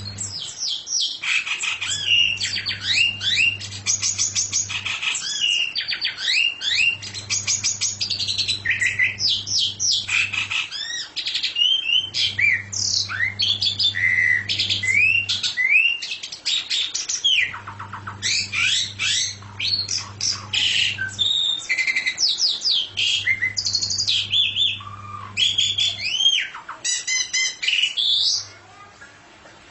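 A songbird singing a fast, varied, nearly unbroken song of chirps and rising whistled notes, stopping near the end. A low hum comes and goes underneath in stretches of a few seconds.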